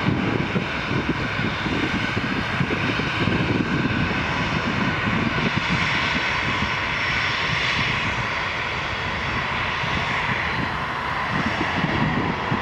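Jet airliner engines close by, a loud steady rush of noise with a high whine of several held tones over it.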